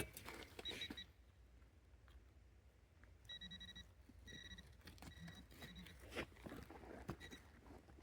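Metal detector beeping on a target: a series of short, high beeps of steady pitch starting about three seconds in, some longer and some clipped, over faint clicks and scraping.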